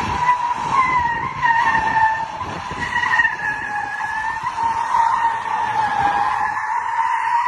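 Car tyres squealing in one long, continuous skid whose pitch wavers up and down, over the rumble of the car.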